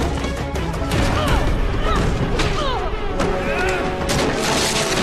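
Fight-scene sound effects: a rapid series of punches, strikes and crashes over a dramatic music score.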